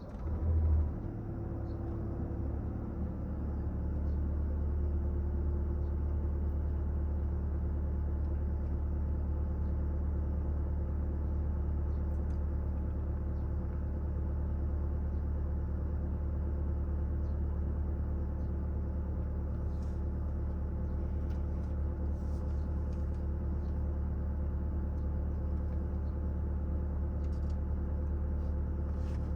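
A car engine starts with a short loud burst about a second in, then settles into a steady low idle.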